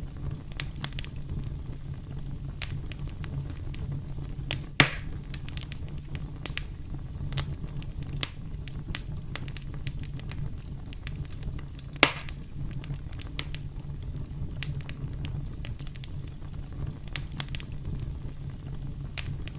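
Campfire crackling: a steady low rumble of burning wood with frequent small snaps, and two loud pops, one about five seconds in and another about twelve seconds in.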